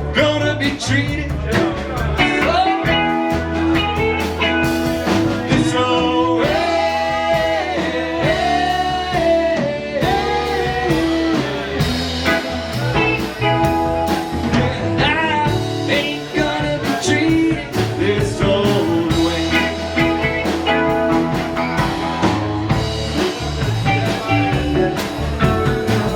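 Live rock band playing an instrumental jam: electric lead guitar with bending, sliding notes over bass and drums.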